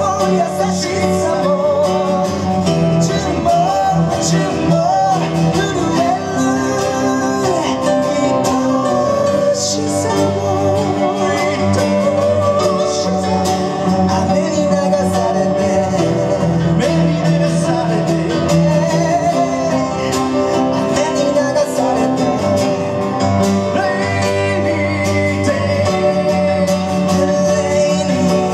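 Pop-rock band music with electric guitar and bass, and singing over the top.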